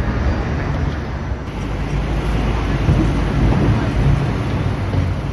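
Steady low rumble and hiss of city street traffic, with no distinct events standing out.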